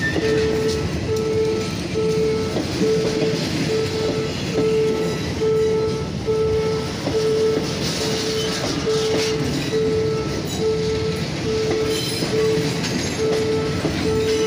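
Passenger coaches rolling past close by, wheels rumbling and clattering over the rails. Over it, an electronic warning signal beeps steadily at about two beeps a second, typical of a level-crossing alarm.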